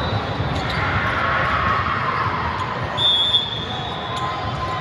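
A ball bouncing on a gym floor amid general indoor sports-hall noise, with a short high squeak or whistle about three seconds in.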